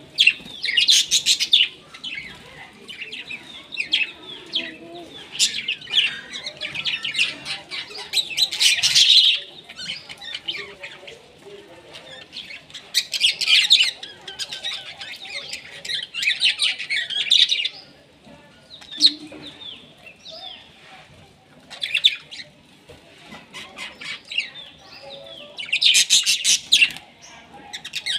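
Birds chirping in repeated bursts of quick, high chirps every few seconds.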